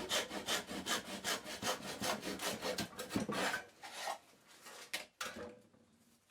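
Hand saw cutting a 45-degree mitre through a thin wooden strip held in a mitre box: quick, even back-and-forth strokes, about four to five a second. The strokes stop about three and a half seconds in, followed by a few lighter ones as the cut finishes.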